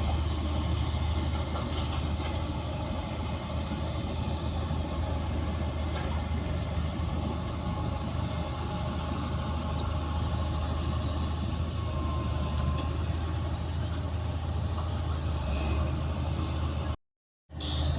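Heavy diesel earthmoving machinery running steadily at a low, even engine speed. The sound cuts out completely for about half a second near the end.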